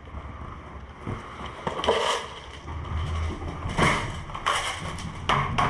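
Rustling of gear with several sharp knocks and clatters, as a backpack pocket is searched for a bag of airsoft BBs.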